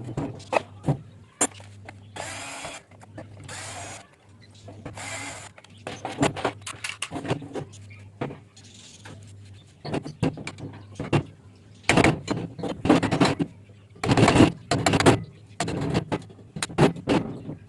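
Metal clinks and knocks of hand tools working on a water pump under repair, irregular and close. About two to five seconds in come three short scraping sounds, under a low steady hum.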